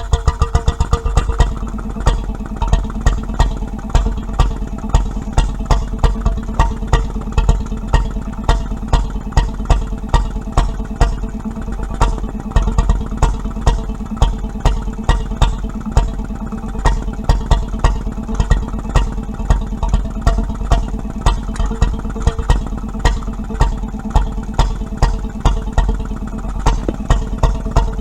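Petter M 1.5 hp single-cylinder two-stroke paraffin stationary engine running steadily just after starting, with a sharp, regular exhaust beat.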